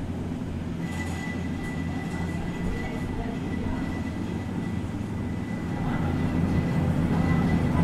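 Electric passenger train running along the rails, heard from the carriage side: a steady low rumble of the running gear. A thin, steady high whine joins about a second in, and the whole grows louder near the end.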